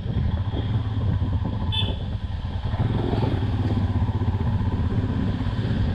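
Royal Enfield Himalayan's 411 cc single-cylinder engine running while the bike is ridden, a steady throbbing exhaust rumble with road and wind noise. A brief high-pitched chirp sounds about two seconds in.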